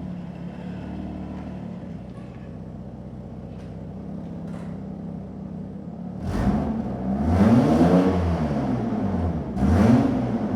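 Jaguar XJ6 3.2's straight-six engine with the mufflers deleted, idling steadily, then revved several times from about six seconds in, each rev rising and falling back, the longest lasting about two seconds.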